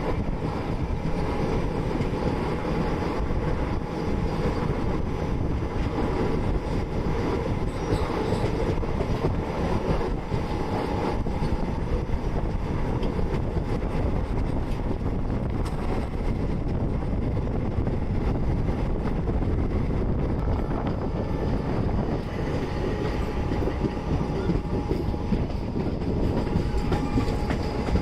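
Passenger train running along the track: a steady rumble with wheels clattering over the rails.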